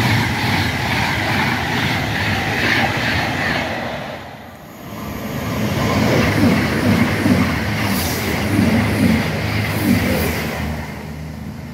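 Express passenger trains passing through the station at speed without stopping, with steady wheel and rail noise. The noise dies down about four seconds in as one train clears, then builds again as another train runs past and fades toward the end.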